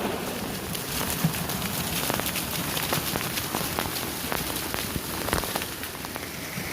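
Water of a small hill waterfall falling onto rock: a steady rush with many sharp, separate splashes of drops through it.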